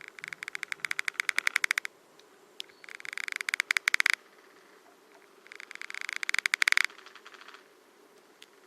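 Larvae of the large black spruce longhorn beetle (Monochamus sartor) creaking: three bursts of rapid clicks, each growing louder over one to two seconds and then stopping abruptly, with a fainter short run near the end.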